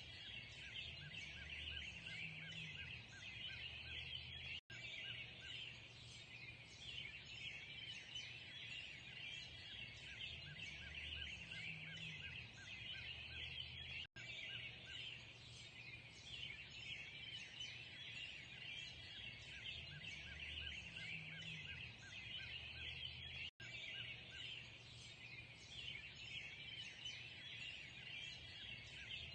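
A dense dawn chorus of many birds chirping and singing over one another, with a low hum underneath. The sound cuts out for an instant about every nine seconds, where a short recording loops.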